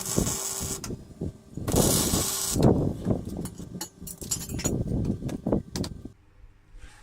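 Two short bursts of welding crackle on steel box section, each under a second, followed by a run of irregular knocks and clanks of metal being handled.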